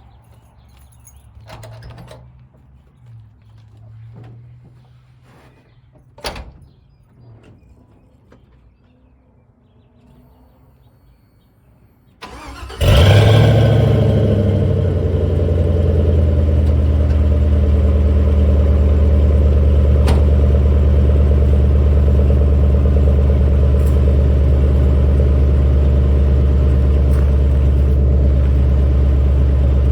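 Stock 5.3-litre LS V8 in a square-body Chevy truck being cold started, about twelve seconds in, after a few faint knocks and a sharp click. It catches at once, flares briefly, then settles into a steady idle. The sound comes through true dual 2.5-inch pipes with generic Flowmaster Super 10 mufflers and turndowns.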